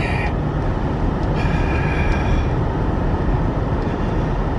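Steady road noise and engine rumble heard from inside a car's cabin as it drives on a snowy road. A faint high tone sounds for about a second, starting about a second and a half in.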